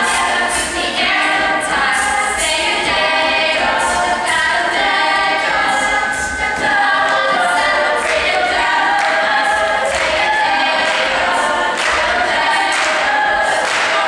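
A cappella vocal group singing in close harmony, several voices holding and moving through chords without instruments.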